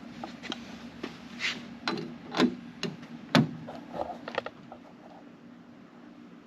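A dozen or so sharp clicks and knocks of small metal parts being handled while a side mirror is fitted to a car door, the loudest about three and a half seconds in. They stop after about four and a half seconds, leaving a low steady hum.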